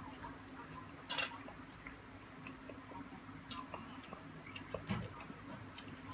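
A person eating by hand: chewing, with scattered small mouth and finger clicks and one louder click about a second in, over a faint steady low hum.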